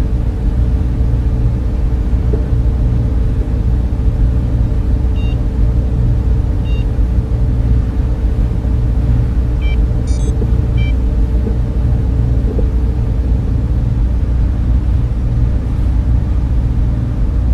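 Server room ambience: many cooling fans running in a loud, steady hum with a few steady low tones in it. A few faint, short electronic beeps come near the middle.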